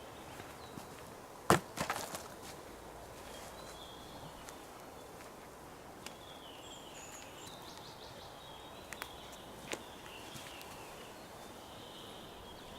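A single sharp knock or snap about a second and a half in, then a few lighter clicks. After that, faint birdsong warbles over a steady outdoor background.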